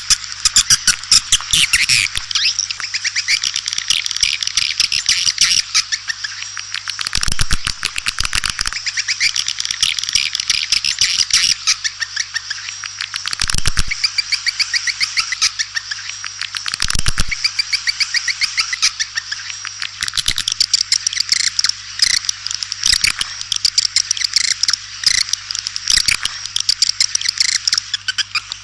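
Swiftlet calling sound: dense, rapid chirping and twittering trills with fast clicking runs, continuous, over a low steady hum. It is a swiftlet lure call of the kind played to attract swiftlets to nest.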